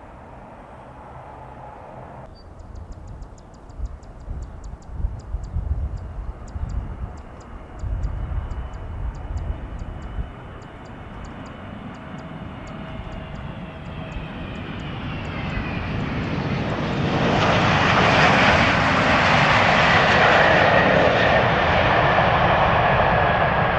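Twin-engine jet airliner coming close overhead: jet engine noise builds over several seconds and stays loud to the end, with a whining tone that falls in pitch as it passes. Low, gusty rumbling before the jet noise builds.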